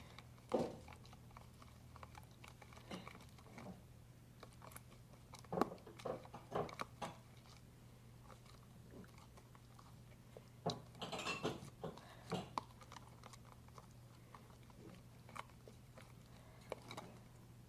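Glue-and-borax slime being stirred and worked in a bowl: faint, irregular short clicks and smacks in scattered clusters, over a steady low background hum.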